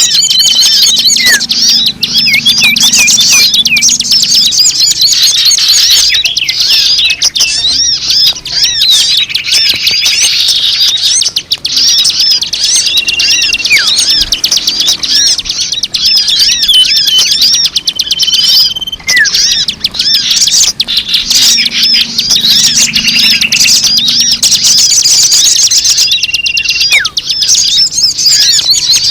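Dense chorus of many small birds chirping and twittering without a break, quick up-and-down notes overlapping, with now and then a short steady whistle. It is a bird-lure call recording meant to draw in all kinds of birds.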